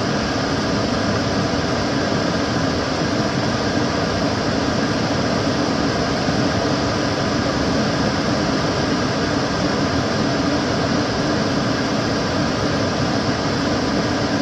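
Kitchen cooker hood extractor fan running steadily, a constant whooshing rush of air with a low hum.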